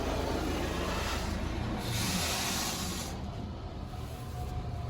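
Car wash water and foam spraying onto the car, heard from inside the cabin: a steady wash of hiss, with a louder burst of spray from about one and a half to three seconds in.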